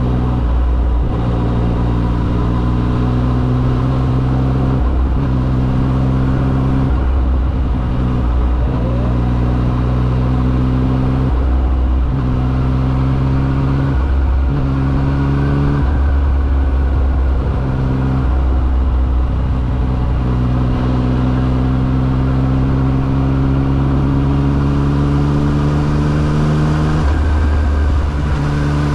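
Yamaha XSR900's three-cylinder engine running under way while riding. Its pitch holds steady for a few seconds at a time, broken by brief dips as the throttle eases or a gear changes, and climbs gently near the end.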